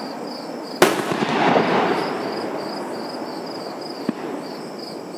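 A fireworks shell bursts with a sharp boom about a second in, followed by a long rumbling echo that slowly fades. A steady, high, pulsing chirp of insects runs underneath.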